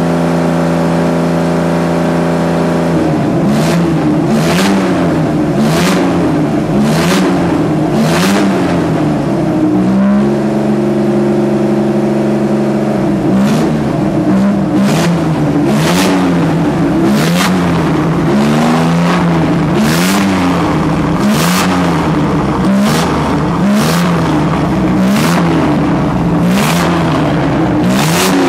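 Freshly rebuilt Jaguar XK140 3.4-litre twin-cam straight-six running on a test stand. It idles steadily for a few seconds, then is blipped again and again, about once a second, with a short return to steady idle midway. It runs well on its first runs after the rebuild.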